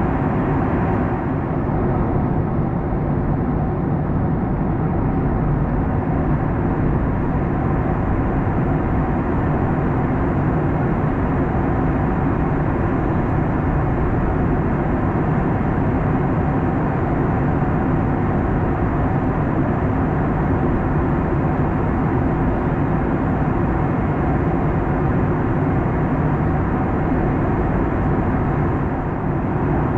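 Steady cabin noise of a Boeing 737 MAX 9 in cruise flight: a constant rush of airflow and engine noise.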